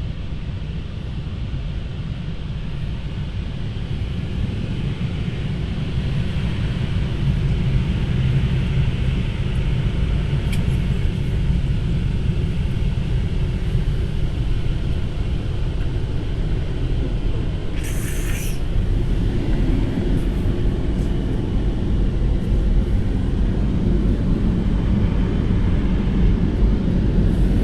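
Automatic car wash machinery heard from inside the car's cabin: a steady low rumble with a rushing sound over it that grows louder about six seconds in. A brief hiss comes about two-thirds of the way through.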